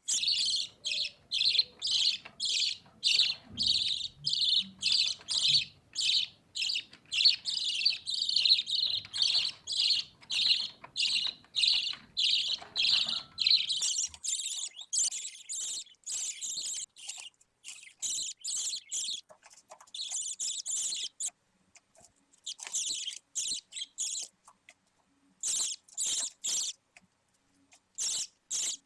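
Budgerigar chick calling: a quick run of short, harsh cheeps, about two to three a second, that breaks into shorter groups with brief pauses in the last third.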